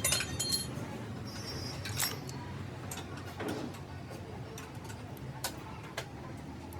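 Sparse metallic clinks and ticks of hand tools and small engine parts being handled, with a few ringing clinks at the start and single sharp clicks later, over a low steady hum.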